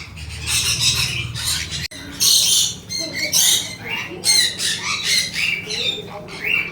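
Many small birds calling together, a dense, continuous chatter of short shrill squawks and rising chirps.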